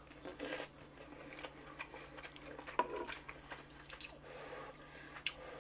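Quiet eating sounds: soft chewing of gopchang (beef intestine) hot pot, with a few light clicks and taps scattered through.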